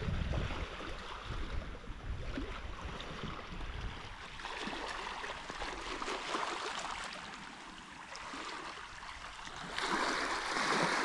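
Black Sea waves washing onto the shore, growing louder near the end. Wind buffets the microphone for the first few seconds.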